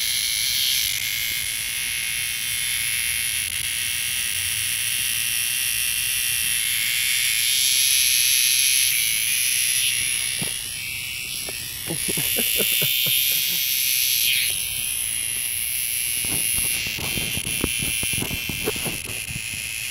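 Cicada buzzing loudly: a shrill, rasping drone that swells and dips in loudness, sagging about halfway through and again a few seconds later before picking back up. Scattered short clicks come through in the second half.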